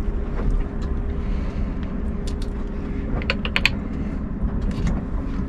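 Scania R580 truck's V8 diesel idling steadily, with a few sharp clicks and creaks in the middle and near the end.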